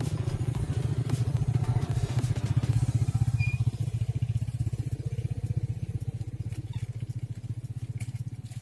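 A small engine running steadily with a rapid low pulse, easing off somewhat in the second half.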